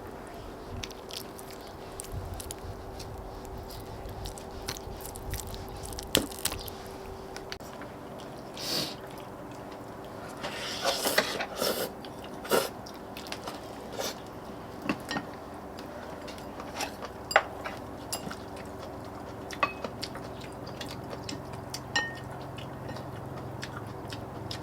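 People eating braised dried pollack: chewing and biting, with scattered sharp clicks and taps and a brief flurry of noise about halfway through, over a faint steady hum.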